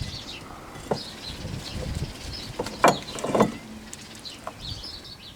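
Songbirds chirping, with a few knocks and clunks of brake parts and tools being handled at the rear wheel; the loudest two clunks come close together about three seconds in.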